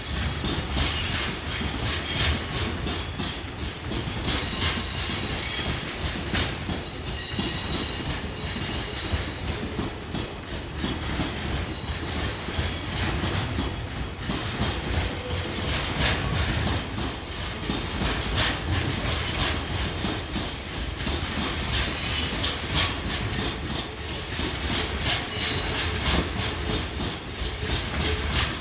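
Freight train of container wagons rolling past: a steady clatter of wheels over rail joints, with high wheel squeal coming and going.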